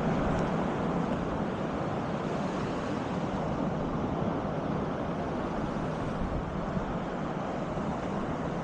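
Steady wind and Baltic Sea surf on a beach, with wind buffeting the microphone.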